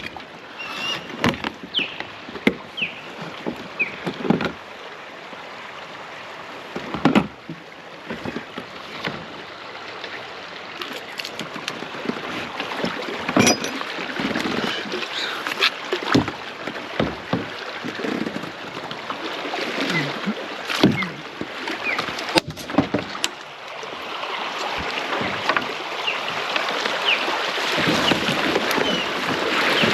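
Kayak on a moving river: water splashing and rushing around the hull, with sharp knocks and splashes now and then. The rush of water grows steadily louder toward the end.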